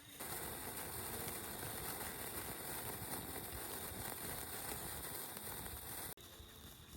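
Campfire crackling and popping, a dense run of small snaps over a steady hiss; it cuts in just after the start and cuts off abruptly about six seconds in.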